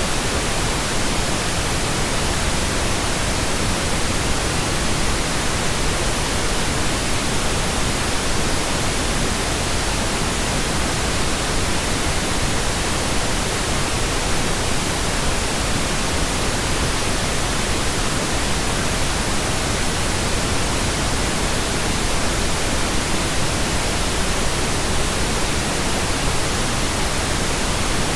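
Steady pink noise, synthetic and computer-generated: an even, unchanging hiss.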